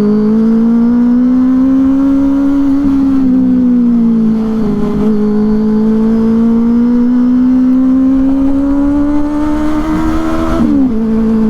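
Benelli 600i's inline-four engine through a loud IXIL aftermarket exhaust, running under throttle on the move. Its pitch climbs and eases slowly with the revs and dips sharply near the end.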